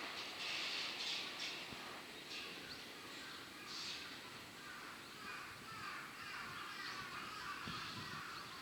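Birds calling over faint outdoor background noise, with a few short harsh calls like a crow cawing in the first couple of seconds and lighter chirps later on.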